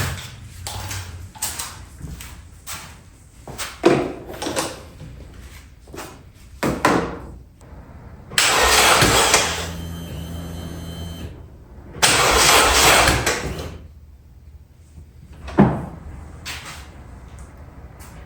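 Car starter motor cranking the engine in two attempts of about two seconds each, on a jump pack with a weak battery, without the engine catching. Short knocks and clatter come before and after the cranking.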